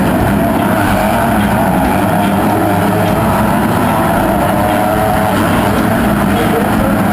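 Motocross bike engines running loud and continuous, their pitch wavering up and down as the throttles are worked.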